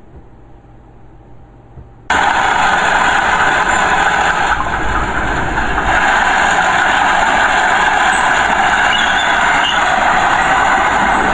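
Diesel engine noise from heavy earthmoving machinery, a small bulldozer or dump truck. A faint low hum runs for about two seconds, then the sound switches abruptly to a loud, steady, dense running noise.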